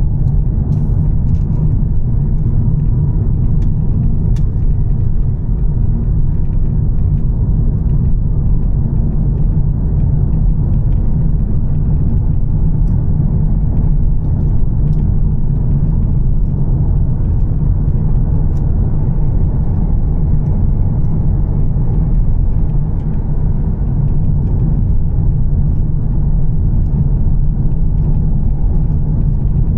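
2013 Volvo S60 T6's turbocharged inline-six with an aftermarket Heico exhaust, heard as a car driving at a steady pace: a constant low rumble with no revving.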